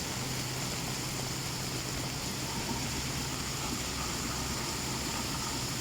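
Steady rushing of floodwater and rain, with a low steady hum beneath it.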